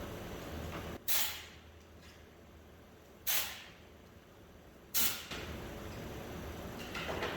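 Three short hissing blasts of pressurised gas about two seconds apart, each cutting in sharply and fading within half a second.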